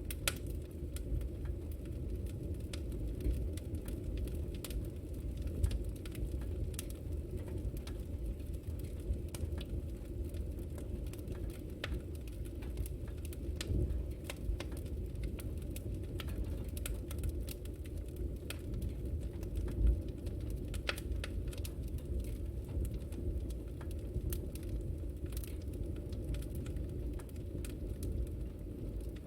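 Wood fire in a fireplace burning with a steady low rumble and frequent scattered crackles and pops.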